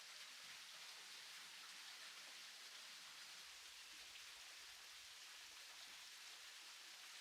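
Light rain falling: a faint, steady hiss with occasional small drop ticks.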